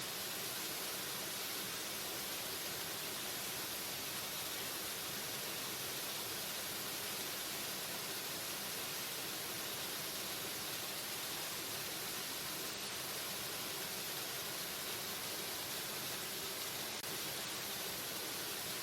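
Steady rushing of a waterfall: an even wash of falling water with no change in level.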